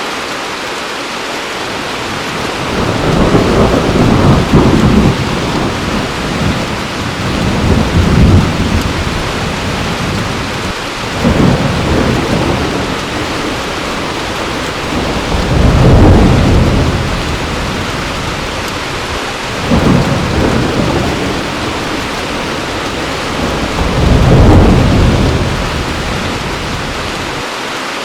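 Heavy rain falling steadily, with six low rolls of thunder rumbling in and fading away about every four seconds.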